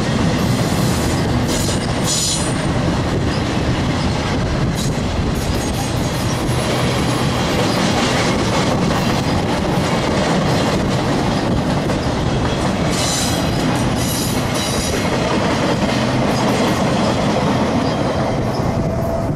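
Freight train's flatcars rolling past at close range: a steady rumble with wheel clatter on the rails, and short high-pitched wheel squeals about two seconds in and again about thirteen seconds in.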